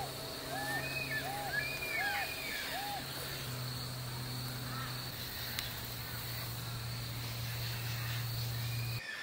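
Outdoor ambience: a bird repeats a short arched call about once every 0.7 s for the first three seconds, over a steady insect drone and a low hum. The ambience cuts off abruptly near the end.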